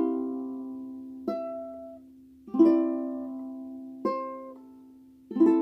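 Ukulele playing a slow simplified passage of chords high up the neck, the 7th fret and then all strings at the 8th fret. There are five strums about a second and a half apart, each left to ring and fade.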